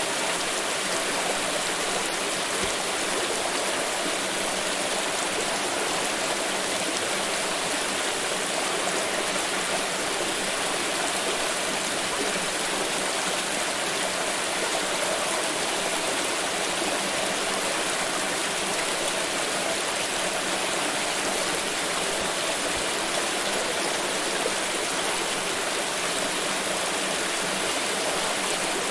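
Water pouring in a steady, continuous rush with no breaks or changes in level.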